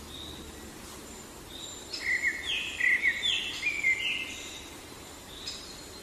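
Songbird singing a short phrase of about four repeated notes, starting about two seconds in, over a steady outdoor hiss with faint, scattered high calls from other birds.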